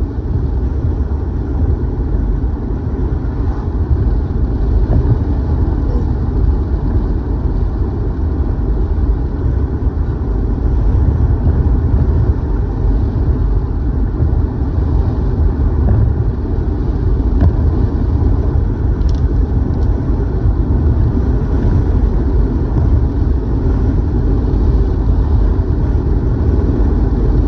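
Steady, even road noise inside a moving car: a low rumble of tyres and engine at cruising speed.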